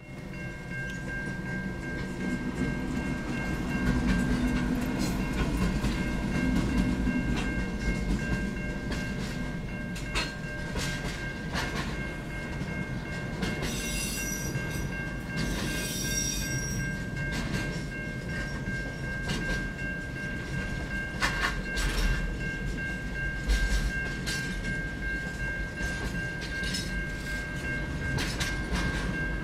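A freight train passing close by. The NR class diesel-electric locomotives rumble past in the first several seconds, then the container wagons roll by with repeated clicks of wheels over rail joints and steady rolling noise.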